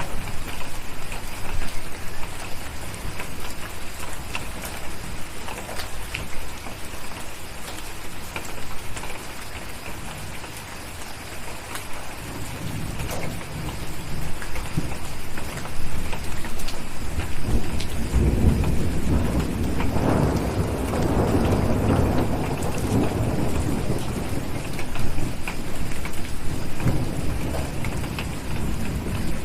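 Steady rain with scattered sharp crackles of a wood fire. About halfway through, a low rumble of thunder builds, is loudest around two-thirds of the way in, then slowly fades back under the rain.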